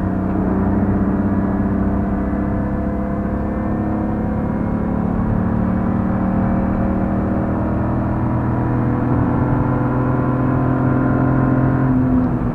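Interior sound of a BMW E46 328i's 2.8-litre straight-six pulling hard under full load in one gear, its pitch climbing slowly and steadily. Near the end the pitch drops sharply as it shifts up.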